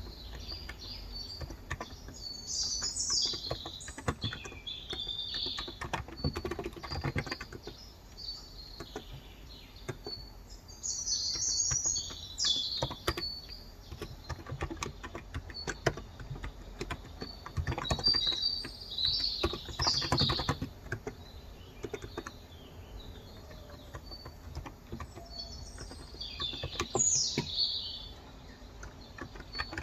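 Typing on a Cox Endeavor electro-capacitive keyboard with light 35 g switches, the keystrokes coming in irregular runs. Birds chirp and twitter in short bursts every several seconds.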